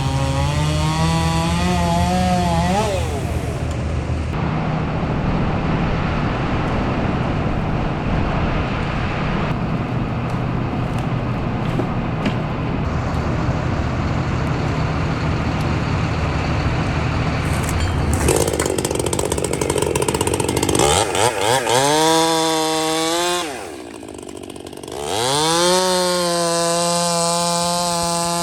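Two-stroke chainsaw running nano chain, cutting wood at full throttle and held under load for a long stretch. It then revs freely, drops briefly to a lower speed near the end, and revs up again.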